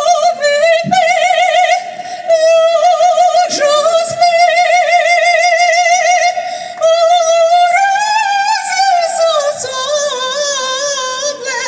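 A woman's classically trained soprano voice singing a wordless vocalise, holding high notes with a wide vibrato. The line climbs to a higher note about eight seconds in and then falls away near the end.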